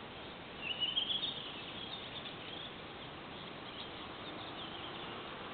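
Birds singing at night: a loud chirping phrase a little under a second in, then fainter chirps, over a steady background hiss.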